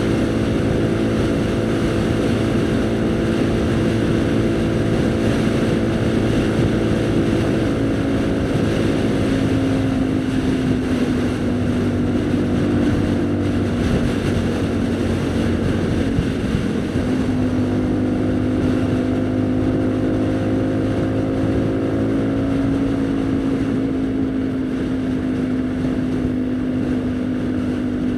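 Haojue NK150's single-cylinder engine running while the motorcycle is ridden, heard from the rider's position. The engine note is steady, drops and wavers for a few seconds around the middle, then settles steady again at a slightly lower pitch.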